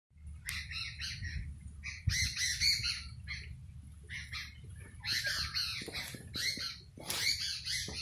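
Small birds chirping, short high calls coming in quick bursts one after another, with a low rumble underneath.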